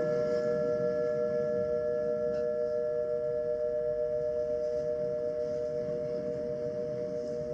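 Singing bowl ringing with one sustained, wavering tone that slowly fades.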